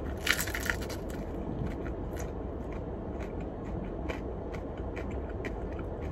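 A crunchy bite into a fried chicken wing about half a second in, followed by chewing with scattered small crunches.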